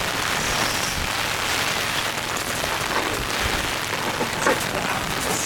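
Steady rain falling, with scattered single drops striking close by.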